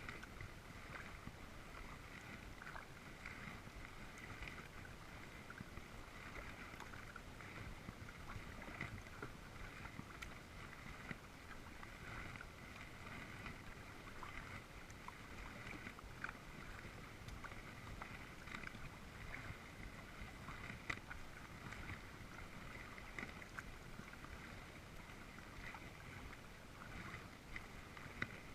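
Kayak paddling on calm water: faint splashes and drips of the paddle blades over a steady, even hiss.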